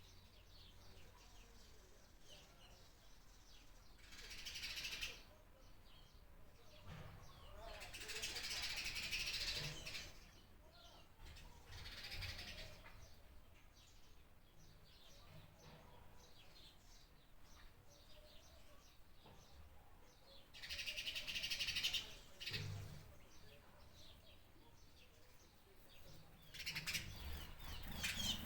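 Birds chirping and singing in several high-pitched bursts of one to two seconds each, with quieter gaps between.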